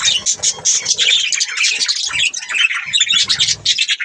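Several budgerigars chattering and chirping in a fast, continuous, overlapping warble of short calls.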